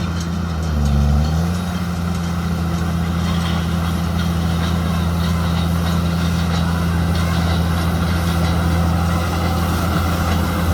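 JCB Fastrac 2170 tractor engine running steadily under the load of a Fusion 2 baler-wrapper, its pitch dipping briefly about a second in and then recovering.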